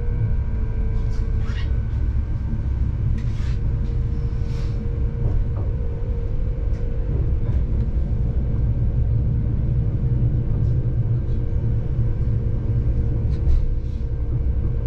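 Running noise of a passenger train heard from inside the carriage as it rolls slowly through a station: a steady low rumble with a steady drone, and a few faint squeaks from the running gear.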